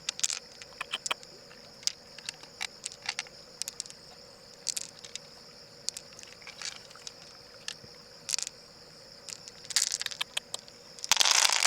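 Scattered short clicks and scrapes, with a longer rustling burst near the end, over a steady high-pitched drone.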